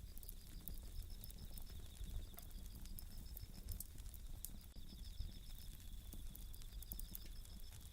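Japanese bell crickets (suzumushi) singing in repeated high ringing trills with short breaks, over a wood campfire crackling in sharp pops and a low steady rumble.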